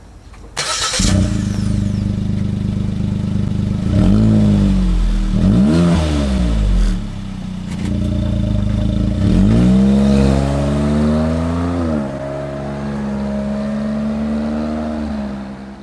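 Suzuki Jimny JB64W's 660 cc turbocharged three-cylinder engine heard through a Ganador GDE-158 sport muffler, running at low speed. The exhaust note comes in suddenly about a second in, then the revs rise and fall several times.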